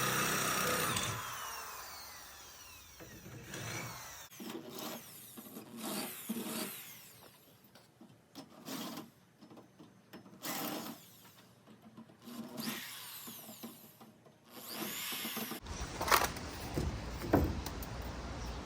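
Power drill running, then spinning down about a second in. Scattered handling knocks and clatter follow, with a few sharp clicks near the end.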